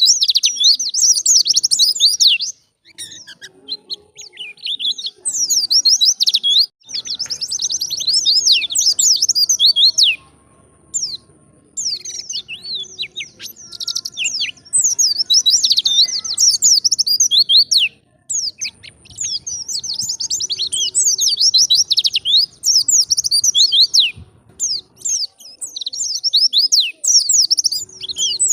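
White-eye (pleci) singing loud, rapid, high twittering phrases in bouts of a few seconds each, broken by short pauses.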